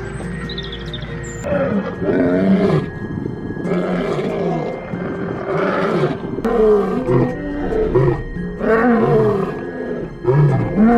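A big cat growls in about six short bouts, one every second or two, each with a wavering, bending pitch. Background music with a steady drone runs underneath.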